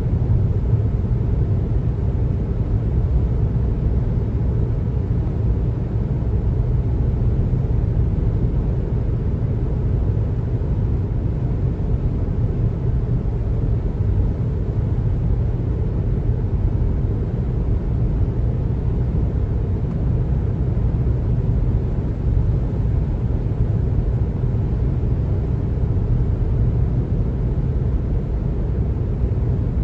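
Steady low rumble of road noise from a car driving along, with tyre and engine noise at an even, unchanging level.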